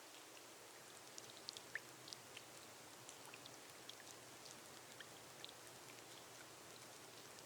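Gentle rain on a glass roof: a faint, steady patter with single drops ticking at irregular moments.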